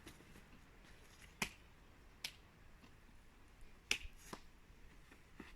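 About five sharp, scattered clicks and slaps: a climber's hands and shoes striking the rock.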